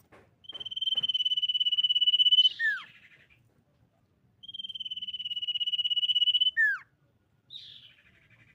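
Common iora singing: two long, high, rapidly trilled whistles of about two seconds each, each ending in a sharp downward slur, followed by a shorter call near the end.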